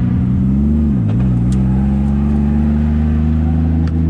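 630-horsepower drift car's engine held at high revs, with a brief dip in pitch about a second in before it comes back up and holds steady.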